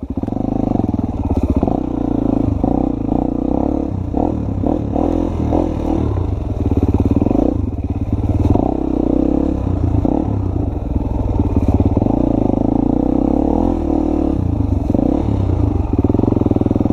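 Honda XR 250's single-cylinder four-stroke dirt-bike engine running under riding, its pitch rising and falling with the throttle.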